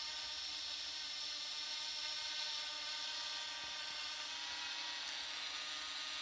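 Parrot ANAFI quadcopter in flight, its motors and propellers giving a steady high whine that holds an even pitch.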